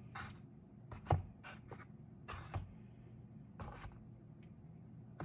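Eggs being set one by one into an egg carton: a series of light, irregular taps and scuffs of shell against the carton, the firmest about a second in.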